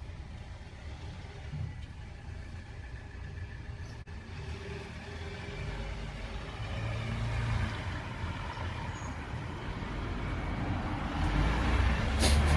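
Motor vehicle engine running, its low rumble growing steadily louder as it draws closer.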